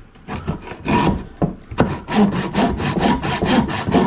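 Hand saw cutting through wood in a run of quick back-and-forth strokes, a few uneven ones at first, then a steady rhythm of about four strokes a second.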